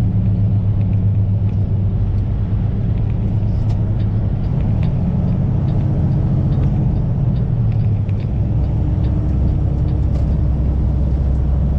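Kenworth semi truck's engine and road noise droning steadily in the cab while driving on the highway. The low drone drops in pitch about eight seconds in.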